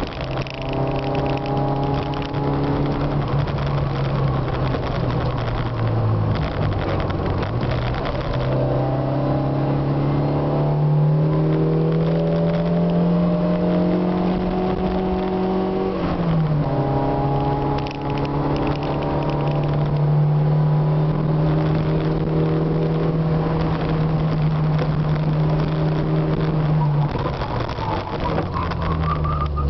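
Yugo's 1.6-litre engine heard from inside the cabin while driving. The engine note climbs gradually, drops sharply about sixteen seconds in, holds steady, then falls again near the end.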